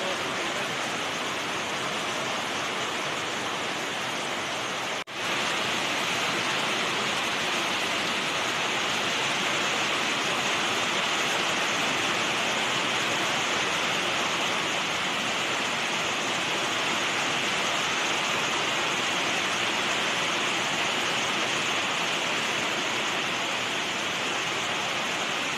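Steady, dense rush of a waterfall, an even hiss of falling water with a brief dropout about five seconds in.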